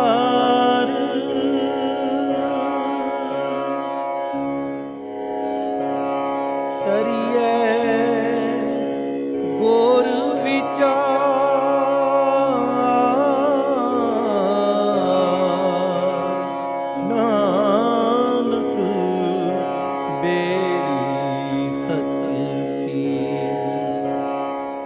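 Sikh shabad kirtan: a harmonium holds sustained chords while a voice sings a gurbani line in long, ornamented phrases. It fades out at the very end.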